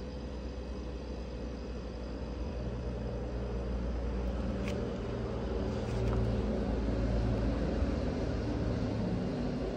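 Newly fitted fridge compressor running with a steady low hum, with one sharp click about halfway through.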